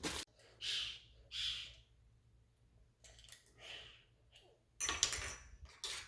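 A handful of brief rustles and light clatters from kit items and packaging being handled, with the loudest cluster near the end.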